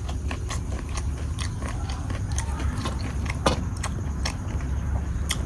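A person chewing crunchy raw fruit close to the microphone: an irregular run of crunches and clicks, with a sharper crunch about three and a half seconds in, over a steady low hum.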